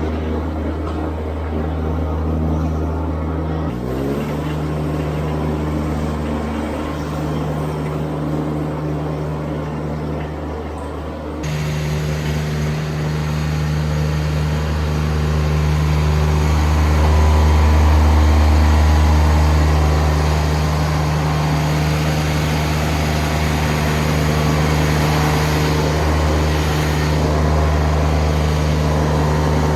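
A vehicle engine running steadily at a constant speed. Its pitch shifts briefly about four seconds in, and at about eleven seconds it suddenly gets louder and brighter, then holds there.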